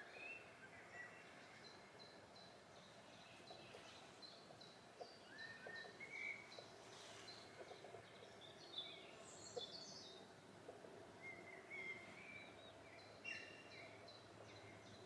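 Faint birdsong over quiet outdoor ambience: several birds chirping with short high notes, with a run of quick repeated notes in the first half.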